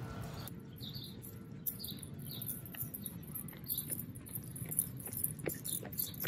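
Faint, short, high chirps of small birds, recurring every half second to second, over low outdoor background noise, with a few light ticks near the end.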